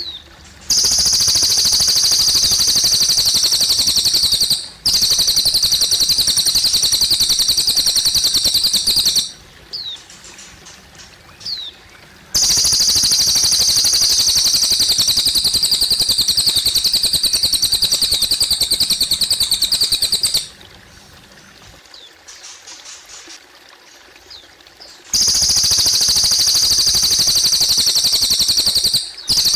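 Cililin bird singing long, fast, buzzing trills of rapidly repeated high notes, in four loud runs of several seconds each, with a few short sweeping chirps in the pauses. A soft trickle of running water underlies it.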